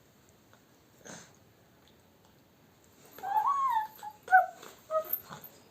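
Labrador whining: one long wavering whine, then a few short high whimpers.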